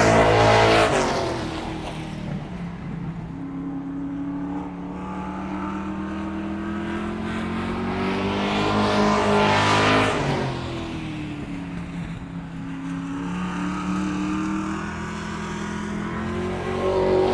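Car engine passing by twice, loudest at the very start and again about ten seconds in. Each time it grows louder and higher as it approaches, then drops in pitch and fades as it goes away.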